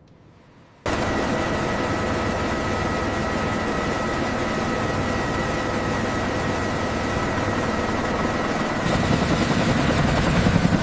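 Mi-8 helicopter's twin turbine engines and rotor running: the sound cuts in suddenly about a second in, a steady high whine over dense rushing noise, growing louder near the end.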